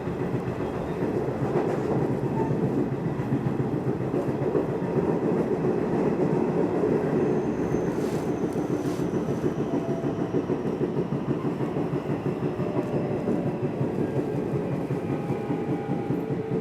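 Nishitetsu commuter train running at speed between stations: steady rumble of wheels on rail, heard from inside the car.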